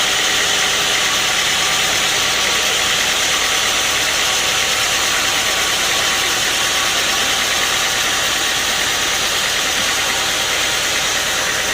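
Sawmill machinery running steadily, a loud, even mechanical noise with a strong hiss that does not change.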